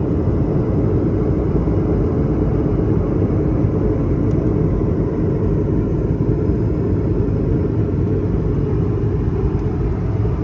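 Steady, loud rumble of an airliner heard from inside the cabin: engine and airflow noise, heaviest in the deep range.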